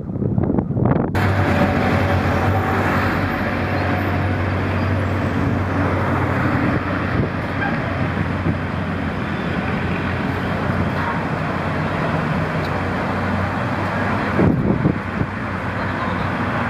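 Motor vehicle running, a steady engine hum under road noise; the sound changes abruptly about a second in.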